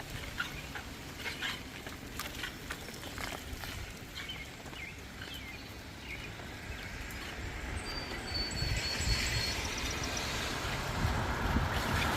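Street ambience while cycling. Scattered light clicks and ticks and a few short high chirps come first, then a thin high squeal about eight seconds in. Near the end a rising rush of noise builds as a vehicle approaches.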